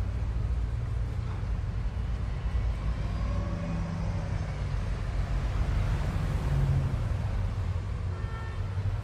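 Steady low rumble of wind buffeting the microphone of a camera carried on a moving bicycle, with a few faint short high tones near the end.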